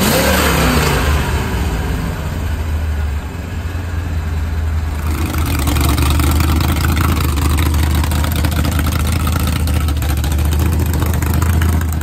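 Car V8 engine blipped once, its pitch rising and falling in the first second, then running with a deep, loud rumble. About five seconds in, the sound grows harsher as it is given more throttle or drives by.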